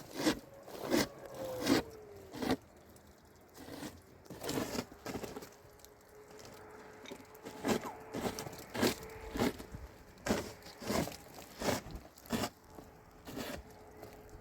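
Footsteps crunching through snow at a steady walking pace, about one step every half to one second, pausing briefly near the middle.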